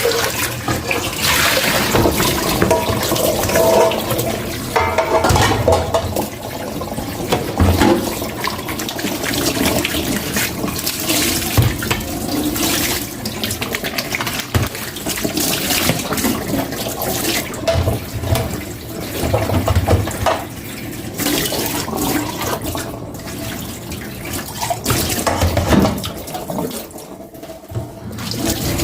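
Tap water running into a kitchen sink as dishes are washed by hand, with short knocks and clatters of dishes throughout.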